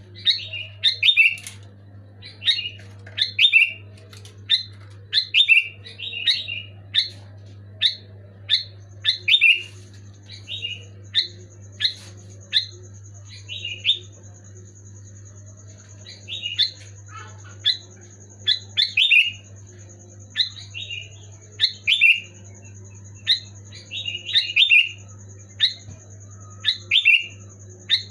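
A sooty-headed bulbul (kutilang) sings loud, clear short phrases, repeated in quick succession, with a pause of about two seconds partway through. A faint steady high whine comes in about a third of the way in.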